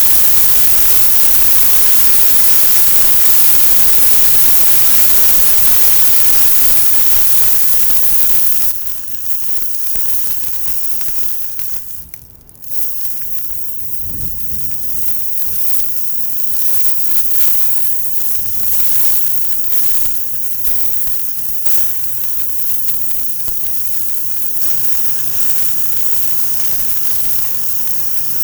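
A loud, steady hiss for about the first nine seconds, then a sudden drop to a quieter hiss with irregular crackling from a fire burning in a compact titanium grill firepit.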